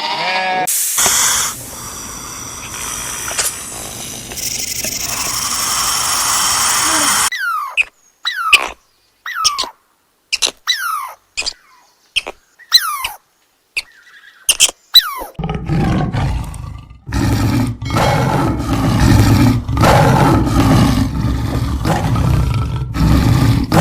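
A run of animal calls. First comes a rough, noisy call lasting several seconds, then about a dozen short calls that each fall in pitch, then a loud, low, rough call near the end.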